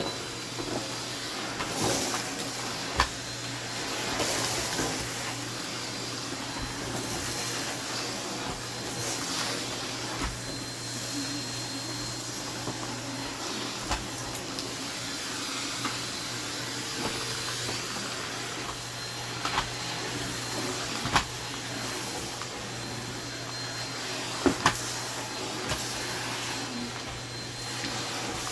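Vacuum cleaner running steadily with a hum and a high whine, picking up crumbs from the floor, with occasional sharp clicks and knocks every few seconds.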